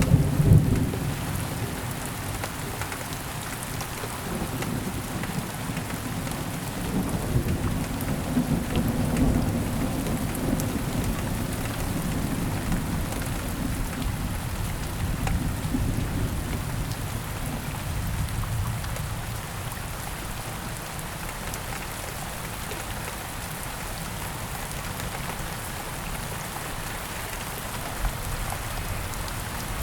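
Steady rain falling, with a long roll of thunder rumbling low beneath it, loudest in the first second and slowly dying away over the next twenty or so seconds.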